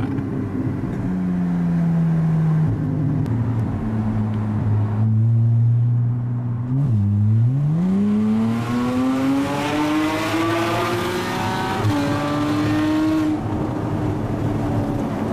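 Porsche flat-six through an Armytrix valved exhaust with headers and sport cats, heard from inside the car: the engine note sinks slowly, then about seven seconds in it blips, dips and climbs steadily in pitch for about five seconds under acceleration before holding high.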